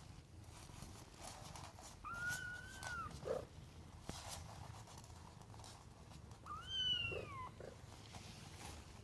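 A 19-day-old Ragdoll kitten mewing twice: two thin, high-pitched calls, the first about two seconds in, the second, rising and then falling, near the end.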